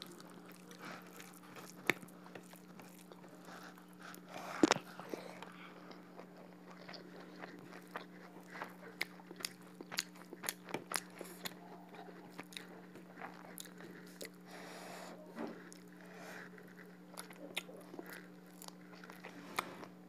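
Close-up eating sounds: a person chewing and biting a hand-eaten meal of rice and duck curry, full of short wet clicks and smacks, one louder click about five seconds in. A steady low hum runs underneath.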